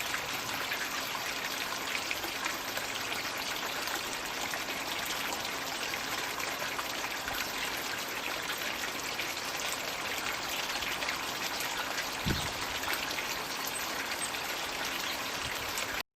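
Water running steadily from a floating Magic Bucket pond water feature, an even trickling and splashing. A short low thump about twelve seconds in.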